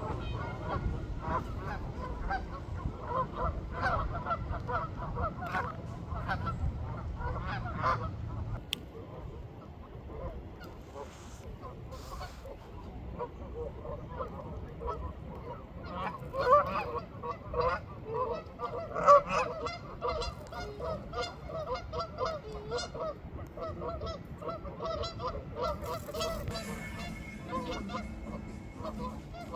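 A large flock of waterfowl on a pond calling: many short, overlapping quacks and honks in a dense, continuous chorus. A low rumble sits under it for the first eight seconds or so.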